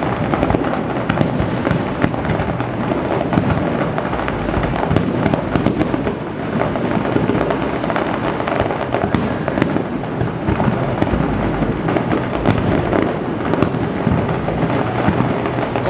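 Aerial fireworks display going off continuously: a dense run of booms and crackling, many sharp cracks over a steady rumble.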